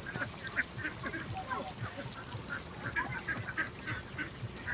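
A flock of poultry calling over one another: many short, overlapping calls.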